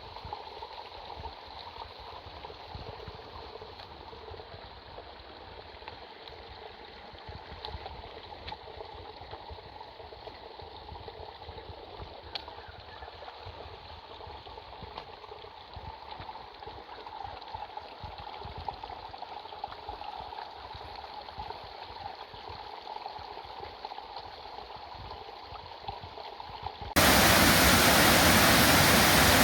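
Steady rush of running creek water. Near the end it jumps abruptly to a much louder, fuller rush of falling water.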